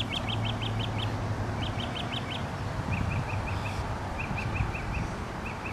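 A songbird singing a song of short, high, quick notes in runs of about five, one run roughly every one and a half seconds, over a steady outdoor background hiss.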